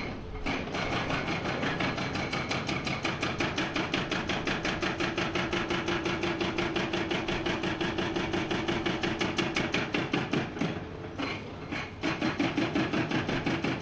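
Hydraulic breaker on a Komatsu PC490 excavator hammering rock in a rapid, steady stream of blows over the running engine. It stops briefly just after the start and again for over a second about three-quarters of the way through, then resumes.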